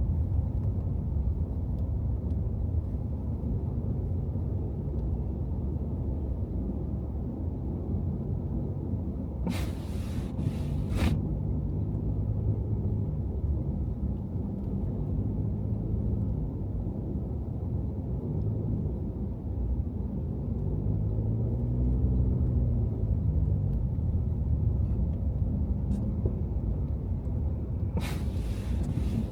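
Car driving through snowy city streets: a steady low engine and road rumble, with the engine note rising and falling about twenty seconds in. Two brief hisses come about ten seconds in and near the end.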